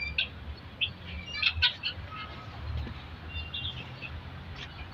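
Birds chirping: short, separate chirps at irregular intervals, over a faint low background rumble.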